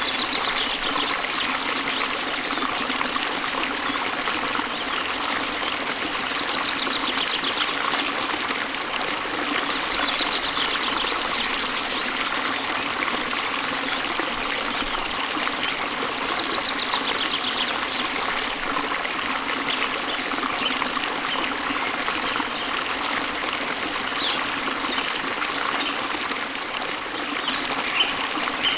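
Waterfall water running steadily. Birds sing faintly over it a few times in short high trills.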